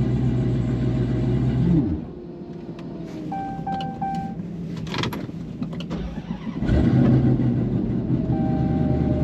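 A drag car's engine running steadily at idle, dropping away about two seconds in and coming back loudly near seven seconds; three short beeps sound in the quieter stretch between.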